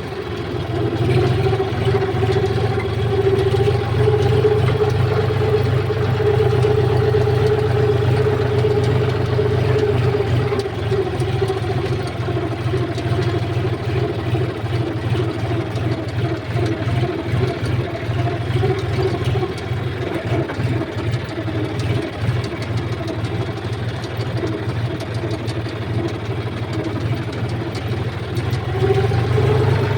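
Heavy diesel engine running steadily at an even speed, a deep hum with a steady higher drone over it.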